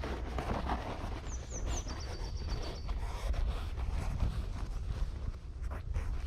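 Footsteps crunching along, over a low rumble, with a short high chirping call of a few stepped, falling notes about a second and a half in.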